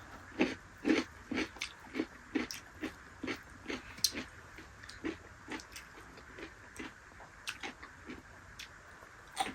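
A person chewing food, in a steady run of short chews about two a second that grows sparser toward the end.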